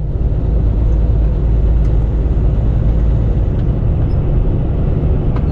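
Semi-truck driving, heard from inside the cab: a steady low engine and road rumble, with a few faint clicks.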